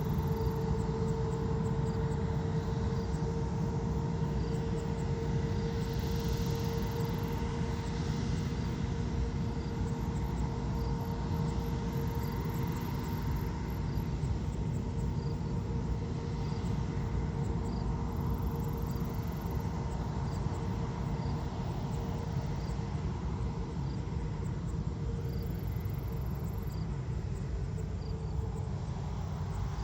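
Aircraft engine running steadily: a low rumble with a steady humming tone that fades out near the end, and faint high ticks repeating about once a second.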